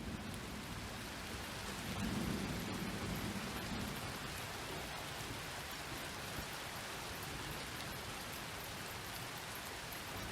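Steady heavy rain falling and pattering, with a low rumble of thunder swelling about two seconds in and fading out over the next second or two.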